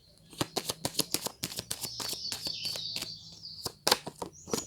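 Tarot cards being shuffled by hand: a quick, irregular run of sharp card slaps and clicks, with steady high chirping in the background.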